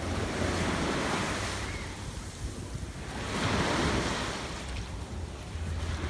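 Sea waves breaking and washing up the beach, surging twice a few seconds apart, with wind rumbling on the microphone.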